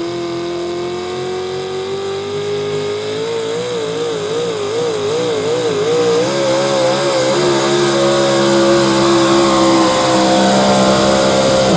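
Modified 4x4 pulling truck's engine running at full throttle under load while dragging the sled. Its pitch climbs slowly, wavers up and down several times in the middle, holds high, then falls off sharply at the very end.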